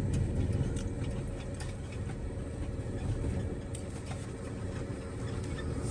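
Box truck engine running with a steady low rumble and a faint hum, with a few light clicks scattered through it.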